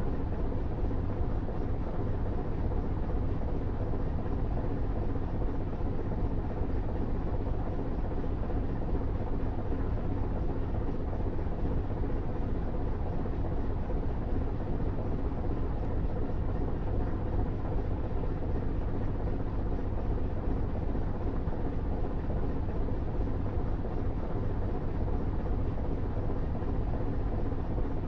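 A truck on the move: a steady, unchanging low rumble of engine and road noise, with a faint steady engine hum.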